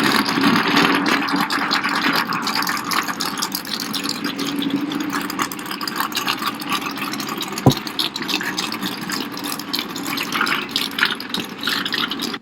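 Big-block Chevy V8 in a Smart car running at idle, a steady rattly engine sound with a sharp click about eight seconds in.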